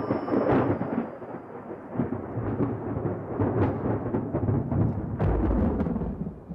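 Thunder rumbling continuously, with several sharp cracks, as a storm breaks a long drought.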